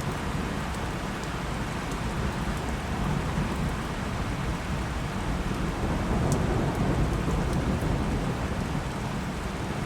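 Steady rain falling, with a low rumble of thunder underneath that swells slightly a little past the middle.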